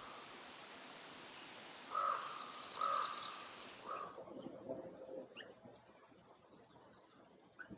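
A bird gives three short calls about two, three and four seconds in, over a steady hiss. The hiss stops suddenly near the middle, leaving faint high chirps from small birds.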